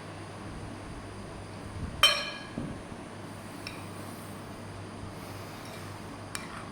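Kitchen dishes clinking. One loud ringing clink comes about two seconds in, followed by a few lighter clinks.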